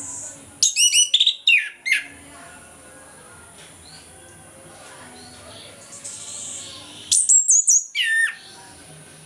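Chestnut-capped thrush (anis kembang) singing in full voice: two loud phrases of quick whistled notes that slide down in pitch, one starting about half a second in and the other about seven seconds in.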